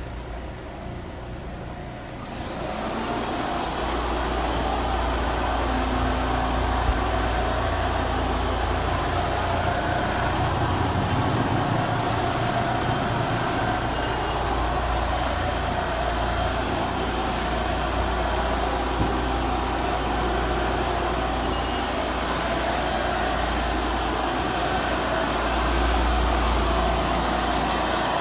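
Floor-cleaning machine starting up about two and a half seconds in, then running steadily with a low rumble.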